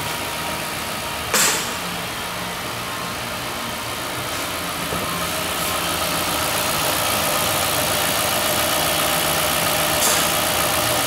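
2001 Lincoln Continental's 4.6-litre DOHC V8 idling steadily, a low-mileage engine the seller calls good running. A short sharp click about a second and a half in, and a fainter one near the end.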